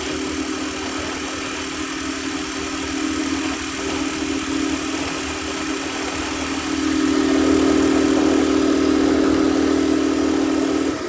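Harbor Freight Predator 212 single-cylinder four-stroke engine on a mini bike running steadily as it warms up, getting louder from about seven seconds in.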